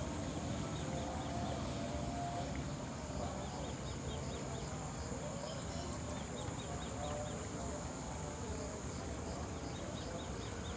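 Insects chirping outdoors in short repeated pulse trains of several chirps a second, over a steady background hiss.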